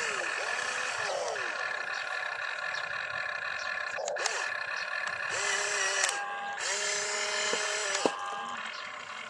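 Small electric gear motors of toy RC construction vehicles whirring, spinning up and winding down several times, with a few sharp clicks.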